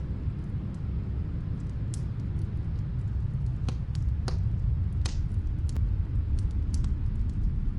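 Steady low rumble of snowstorm wind, with a wood fire crackling in scattered sharp pops and clicks over it.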